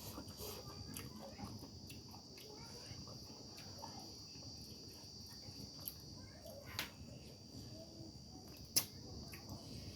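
A steady high-pitched insect drone, like crickets, with scattered small eating clicks from hand-eating a rice thali, and one sharp snap about nine seconds in.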